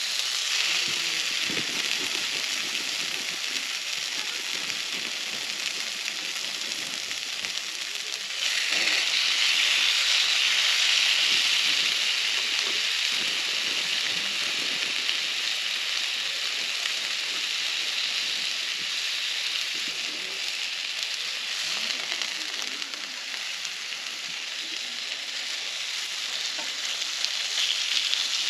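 Food sizzling in a hot pan: a steady frying hiss with small pops, getting louder about eight and a half seconds in.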